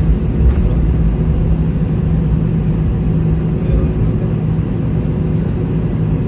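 Cabin noise inside an Airbus A320 with its CFM56 engines running: a steady, loud low rumble with a constant hum over it.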